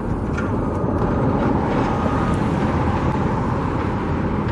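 Steady road traffic noise, vehicles passing on a nearby road, swelling slightly near the end.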